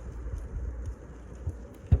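Wood fire crackling with faint scattered pops over a low rumble, and one sharp, dull thump near the end.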